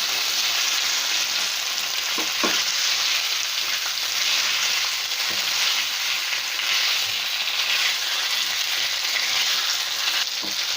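Paneer love bites with onion, capsicum and tomato sauce sizzling in a hot pan while being stirred and mixed: a steady frying sizzle with a few light knocks about two seconds in and near the end.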